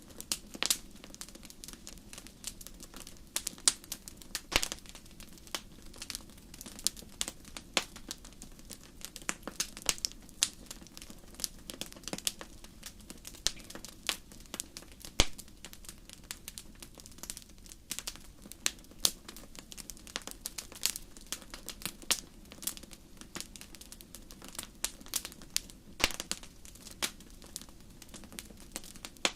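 Wood fire burning in a fireplace, crackling and popping in irregular sharp snaps, some louder than others, over a faint steady low hum.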